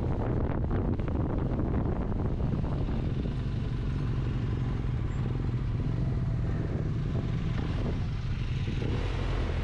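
Motorcycle riding at a steady speed, a constant low engine drone mixed with wind rushing over the microphone.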